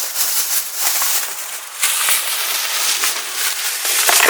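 Campfire wood crackling and popping with dense, rapid snaps, starting suddenly.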